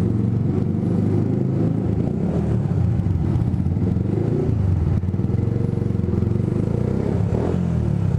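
Single-cylinder four-stroke engine of a Yamaha YZF R125 with an aftermarket Scorpion exhaust, running at fairly steady revs with a deep exhaust note.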